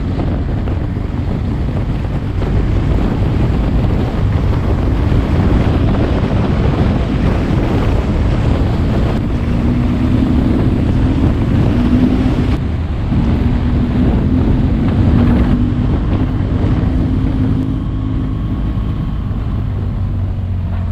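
Heavy wind noise on an action camera's microphone while riding a motorcycle, with the engine's note beneath it. The engine note climbs a little in pitch about halfway through and again a few seconds later.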